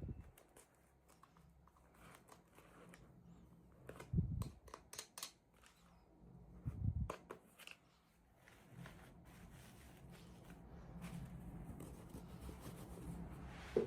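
Small toys and packaging being handled during an unboxing: scattered light clicks, taps and rustles, with two louder thumps about four and seven seconds in.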